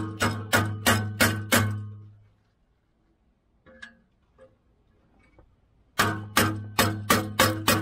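Hammer blows on a rusted, stuck exhaust flex pipe: a run of about six ringing metal strikes, roughly three a second, then a pause with a couple of faint clinks, and another quick run of strikes near the end.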